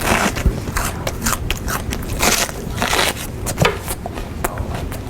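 A person eating a crunchy snack loudly, with repeated crunching bites, chewing and crackling at an irregular pace.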